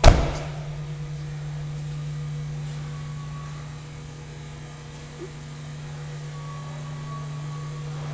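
A minivan door slams shut with one sharp, loud bang, followed by a steady low hum.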